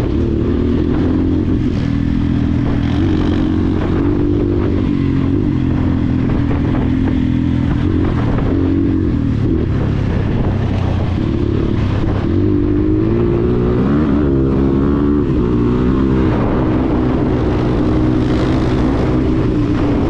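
Dirt bike engine running under way, its revs rising and falling as the rider works the throttle.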